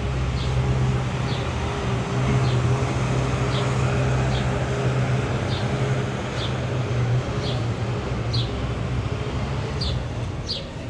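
City street traffic: the steady low hum of vehicle engines running under an even background of noise. A short high chirp repeats roughly once a second throughout.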